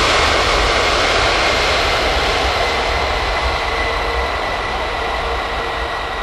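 Airbus A330 twin-engine jet airliner landing: loud jet-engine noise with a steady high whine, slowly fading.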